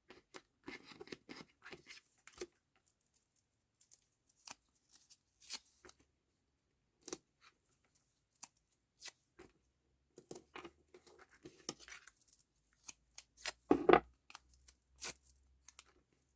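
Papercraft materials being handled: scattered rustles, scrapes and light taps of paper and card, with a louder knock about fourteen seconds in.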